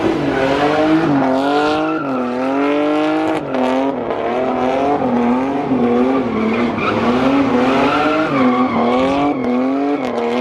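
A car engine revving hard, its pitch swinging up and down about once a second, while the tyres spin and squeal in a burnout.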